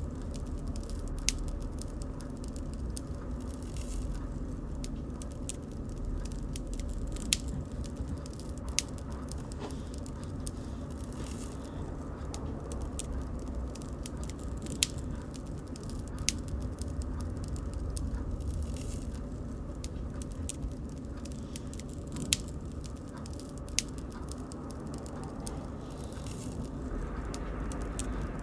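Bonfire burning: a steady low rumble of flames with wood crackling throughout and sharp pops every few seconds.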